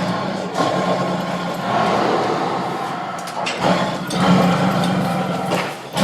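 Tiger roaring: long, rough, low roars one after another, with short breaks about half a second in and again a little past three and a half seconds.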